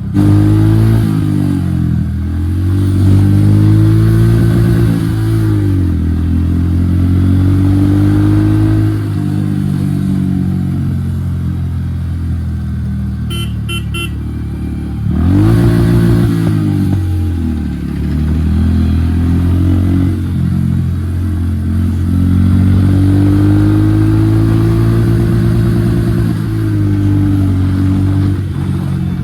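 Royal Enfield Hunter 350's single-cylinder engine on the move, running through an aftermarket HK exhaust with the dB killer removed. Its pitch rises and drops several times as it is revved up and shifted.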